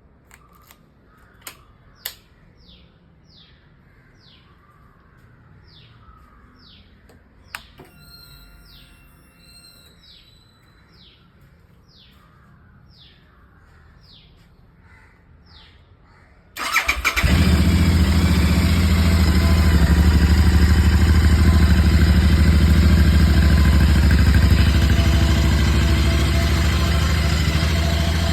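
A bird chirps over and over, with a few sharp clicks, while the motorcycle sits silent. About sixteen seconds in, a Royal Enfield Interceptor 650's parallel-twin engine is started from cold, catches at once and settles into a loud, steady idle that eases slightly near the end.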